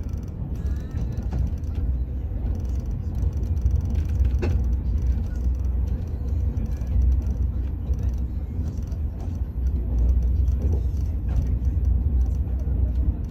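Steady low rumble of a high-speed train, with a few light knocks and faint voices.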